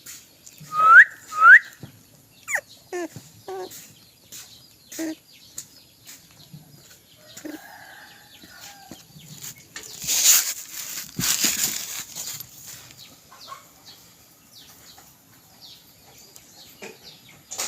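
Birds: two short rising whistled calls about a second in, then scattered short calls and clicks, and a burst of rustling noise about ten seconds in.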